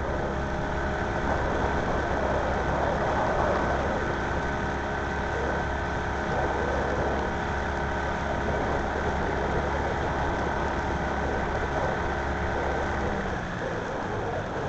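An engine idling steadily; its low hum drops away about 13 seconds in.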